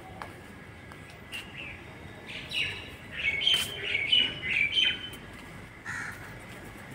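Birds chirping: a string of short whistled notes, coming thick and loud between about three and five seconds in, with a single call near the end.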